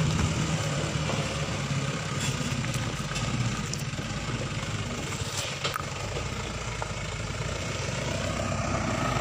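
Diesel engine of a Mitsubishi Canter truck loaded with oil palm fruit running, with scattered knocks and rattles; the engine gets a little quieter in the middle and louder again near the end.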